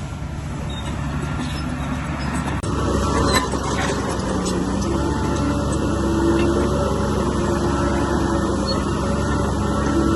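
Heavy diesel earthmoving machine running at work, with one sharp metallic clank about three seconds in. After that the engine grows somewhat louder.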